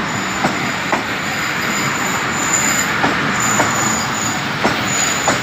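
Passenger train arriving at a station platform, rolling slowly: a steady rumble, a thin high wheel squeal coming and going, and sharp clicks every second or so as wheels cross rail joints.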